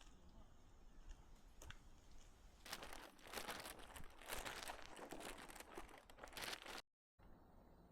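Footsteps crunching on a dry, leaf-strewn forest path: a dense crackling that starts about three seconds in and cuts off abruptly near the end.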